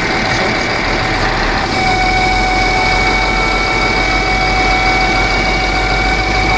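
New hydraulic oil pump running under system load with a steady high-pitched whine over a deep hum that comes in about a second in; the whine is the noise the new pump makes when operating on the system.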